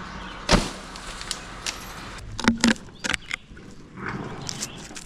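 A series of sharp knocks and thuds: cut pieces of maple dropped from the tree hitting the ground. The loudest comes about half a second in, then two close together midway, then lighter ones.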